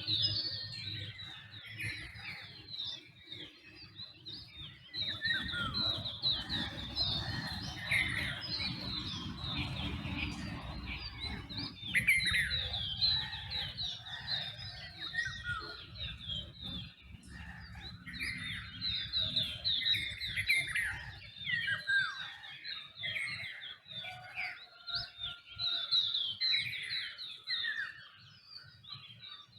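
Dawn chorus of many birds calling at once: a dense, overlapping stream of short chirps and whistles. A low rumble sits underneath for several seconds in the first half.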